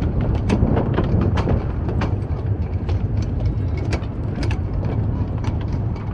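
Footsteps on pavement at a walking pace, about two a second, over a steady low city rumble.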